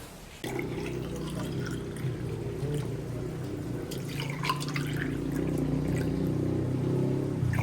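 Water running and pouring steadily into a container, starting suddenly and getting slightly louder as it goes, with a few light clinks of handling.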